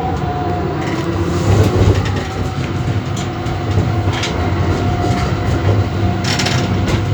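VBZ Tram 2000 running along its track: steady rumble of steel wheels on rails with a constant electric whine from the drive. There are short hissing bursts near the end.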